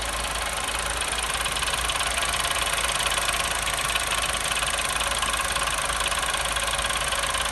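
New Chevrolet Onix engine idling cold with a steady, fast metallic rattle like sheet metal banging, which comes on when the brake pedal is pressed. It is the owner's example of the model's widely reported engine-bay rattle defect.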